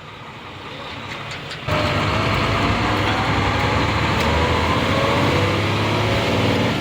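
Nissan Diesel UD440 truck's diesel engine, fairly quiet at first, then coming back on power suddenly about a second and a half in. It then pulls steadily under load, its pitch rising slowly as the truck accelerates in gear.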